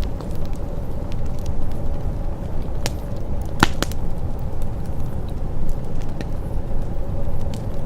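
Wood fire crackling in a fireplace: a steady low rumble of burning with scattered small snaps and pops, and one sharp loud pop a little past halfway.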